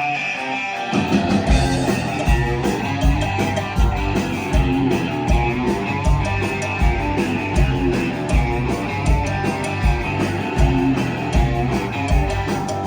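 Rock band playing: an electric guitar riff, joined about a second in by bass and drums with a steady beat.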